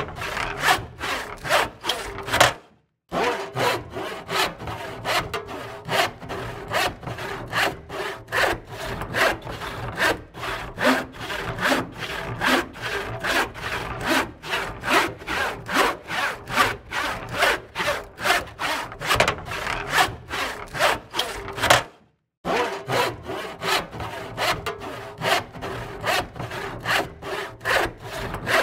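Hand saw cutting through wood in steady back-and-forth strokes, about two to three a second, with two brief half-second breaks.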